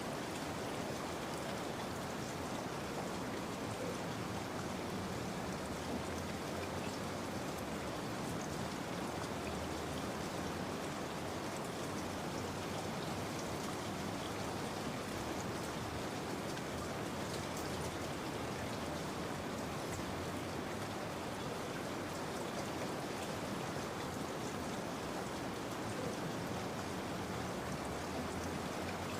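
Steady rain falling, an even patter of drops on a surface, with no change or break.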